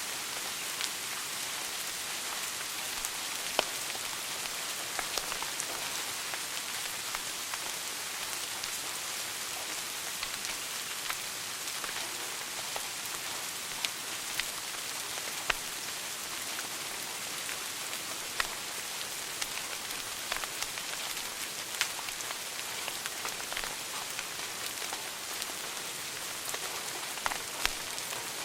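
Wood fire crackling in a fireplace: a steady hiss with scattered sharp pops and snaps, a few of them louder.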